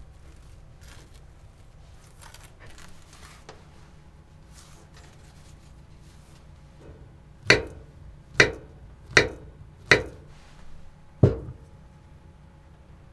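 Five sharp knocks or chops, spaced just under a second apart, starting a little past halfway, with a few faint clicks and rustles before them.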